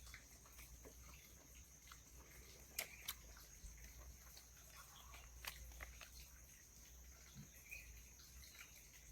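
Near silence: faint steady background tone with a few soft, short clicks, the clearest a pair about three seconds in and another about five and a half seconds in.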